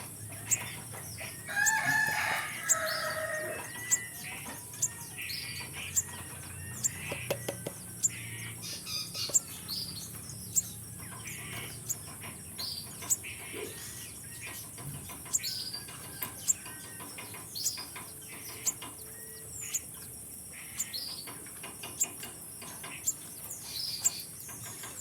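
Spiderhunter calling: a sharp, high chip repeated roughly once a second, with a louder run of calls about two seconds in.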